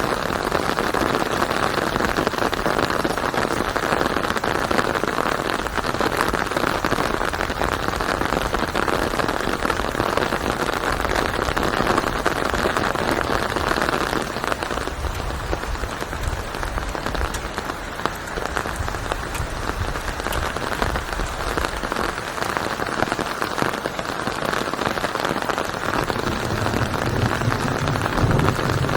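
Steady rain falling in a dense, even patter. A low rumble comes up under it near the end.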